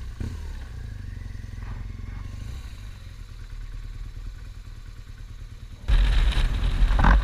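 Motorcycle engine running at a low idle, then about six seconds in a sudden loud rush of engine and wind noise as the bike gets under way.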